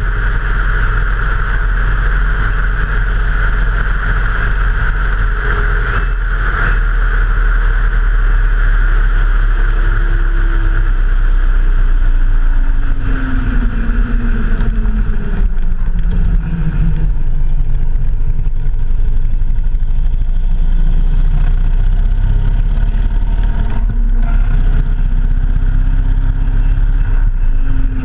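Vehicle engine running on the move, its pitch falling and then rising again near the end as the speed changes, over a constant deep wind rumble on the camera's microphone.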